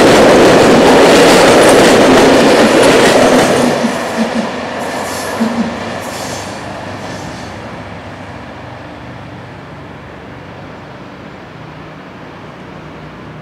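A passenger train running past on the tracks below. Its loud wheel-and-rail noise fades after about three and a half seconds as the last coaches go by. A few sharp clicks come as the wheels cross the rail joints, and brief high-pitched wheel squeals follow around five to seven seconds in.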